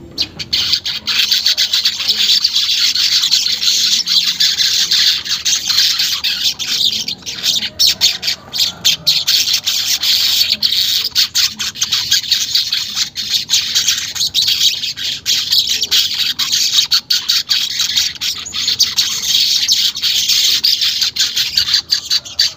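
Manyar weaver bird singing a fast, continuous, buzzy chatter of rapid notes (the 'ngeriwik' song of a bird in full voice). It starts and stops abruptly.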